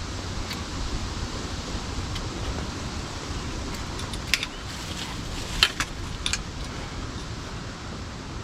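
Wind rumbling steadily on the microphone, with a few short sharp clicks around the middle, the loudest about five and a half seconds in.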